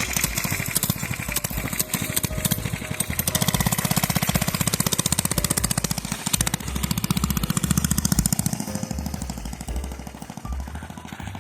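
Mini bike engine running with a rapid, even firing pulse. It is louder through most of the stretch and eases off near the end.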